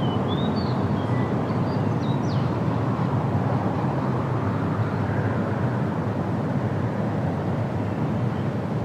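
Steady wind rushing through trees as a low, even rumble. Over it, a bird gives a few short high chirps and whistles in the first two seconds or so, and one faint chirp comes near the end.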